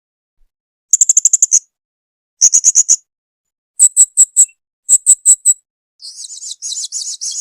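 Blue-crowned hanging parrot (serindit) calling: four short bursts of rapid, high, sharp notes about a second apart, then a longer, softer trill starting near the end.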